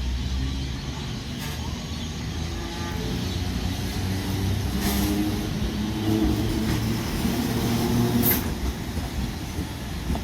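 Electric train's steady low hum and rumble at a station, with short hisses of air about halfway through and again near the end.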